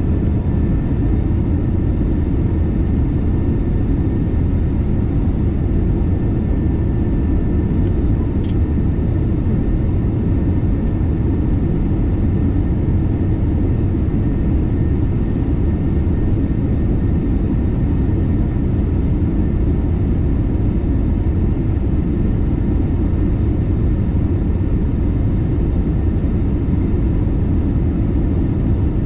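Airliner cabin noise heard from a passenger seat: a steady, unchanging rumble of engines and airflow, with a faint steady whine and a single small click about eight seconds in.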